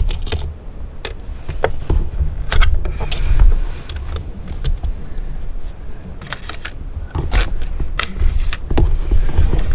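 Packing tape being pulled off a new sewing machine, with irregular crackling tears, clicks and handling knocks over a low rumble.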